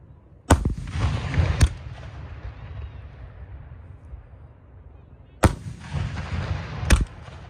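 Aerial fireworks shells bursting overhead: two loud bangs about five seconds apart, each followed by a rolling rumble and a second sharp crack a little over a second later.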